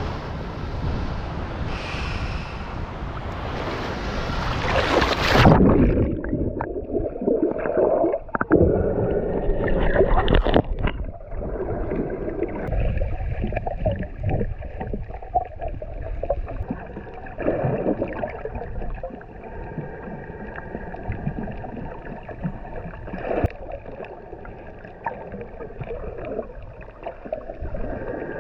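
Wind and surf noise on the microphone, then about five seconds in the camera goes under sea water and the sound turns muffled: underwater gurgling and sloshing from the snorkeler moving in shallow water.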